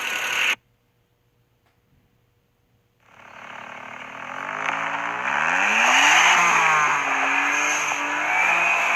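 Turbocharged car engine revving, coming in about three seconds in after a brief silence and building up, its pitch sweeping up and down under a loud hiss.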